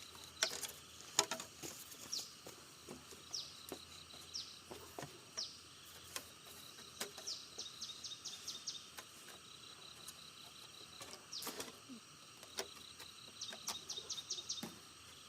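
A bird calling outdoors with short, quick descending chirps, some single and some in fast runs of about five a second. Scattered sharp knocks and taps sound in between, the loudest about a second in.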